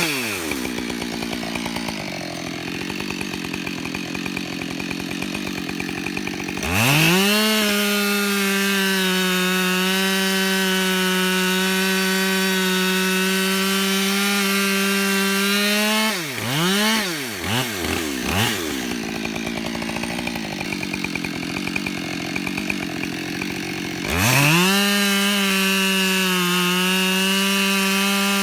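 Husqvarna 572XP two-stroke chainsaw cutting firewood rounds, running at high revs with a steady whine. It eases off and revs back up between cuts twice, with short throttle blips in between.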